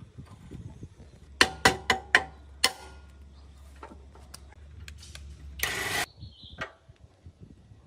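Metal tools and engine parts knocking together: about five sharp metallic knocks that ring briefly over a low steady hum, then a loud hiss lasting about half a second near the end.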